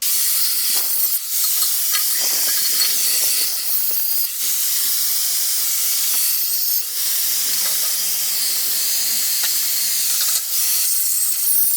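Electric arc welding on a steel frame: a loud, steady hiss with short breaks about four times as the welds stop and restart.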